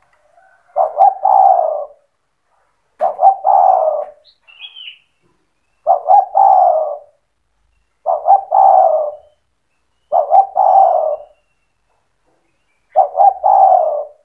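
Spotted dove (tekukur) singing: six cooing phrases at intervals of about two seconds. Each phrase opens with two short notes and runs into a longer falling coo.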